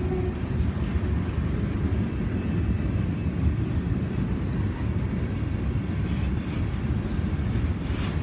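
Freight train rolling by: a steady, dense low rumble.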